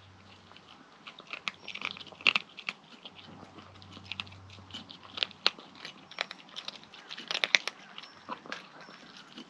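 Kitten chewing and crunching its food: irregular sharp crunches and clicks, loudest in a few clusters.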